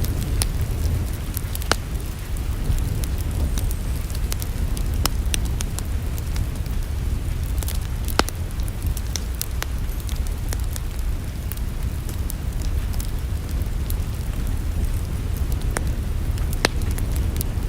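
Wood fire burning in a fireplace: irregular sharp crackles and a few louder pops over a steady low rush of the flames.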